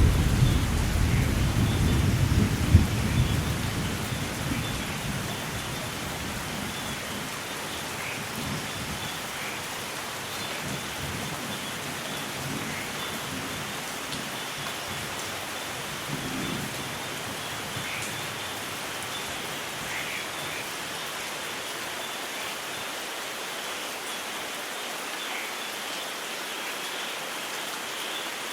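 Thunderstorm: a low rumble of thunder at the start fades away over the first few seconds, leaving steady rain falling with now and then a single drop standing out.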